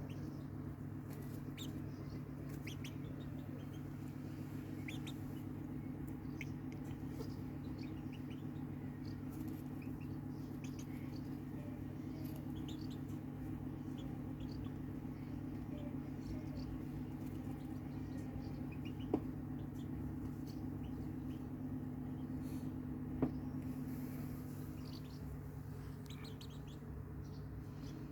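Backyard chickens chirping and peeping, scattered short high calls throughout, over a steady low hum. Two sharp clicks sound about two-thirds of the way through.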